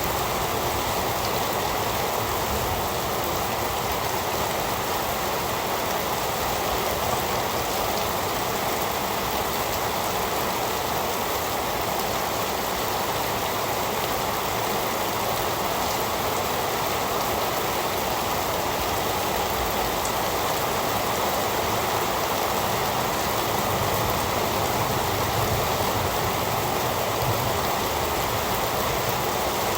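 Heavy rain falling steadily: an even, unbroken hiss of drops.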